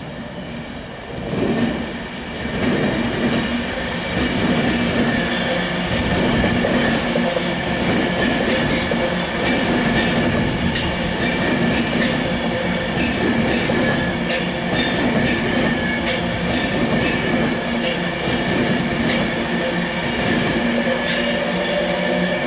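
Class 390 Pendolino electric train running past over crossover pointwork. Its steady rumble builds over the first two seconds. From about eight seconds in, a series of sharp wheel clicks comes in as the carriages' wheels cross the rail joints of the points.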